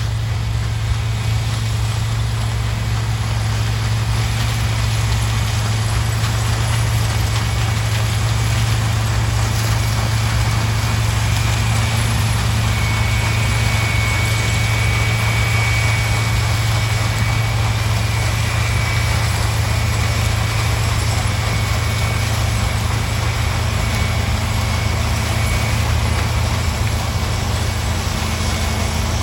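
Heavy diesel engine of a John Deere sugarcane harvester running steadily: an even low drone with no change in speed, and a faint high whine in the middle.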